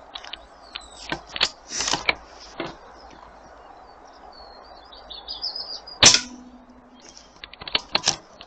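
An AP900 air rifle fires once about six seconds in: a sharp crack followed by a short, steady low ring. Lighter clicks and knocks of the rifle being handled come before and after the shot, and a bird chirps in the background.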